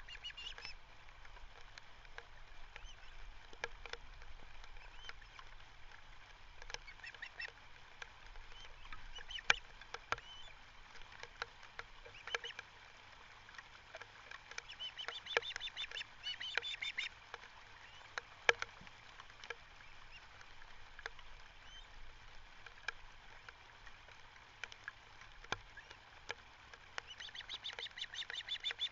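Birds calling outdoors: two bouts of rapid, repeated high-pitched call notes, one about halfway through and one near the end, over faint background noise with scattered sharp clicks.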